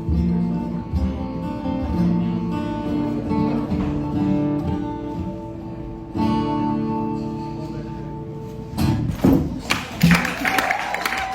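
Acoustic guitar playing sustained chords, a last chord ringing and fading out, then clapping and crowd noise starting near the end.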